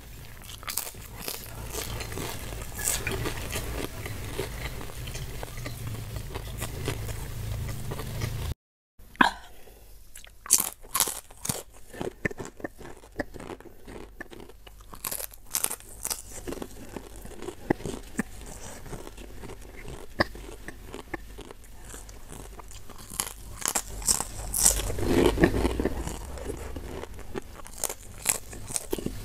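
Close-miked eating: a person biting into and chewing crisp food, with a run of crunches and chewing sounds. The sound cuts out completely for a moment about a third of the way through.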